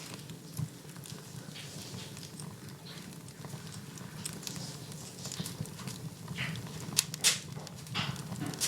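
Wood fire in a fireplace crackling, with scattered small snaps over a steady low rumble and two sharp, loud pops about seven seconds in.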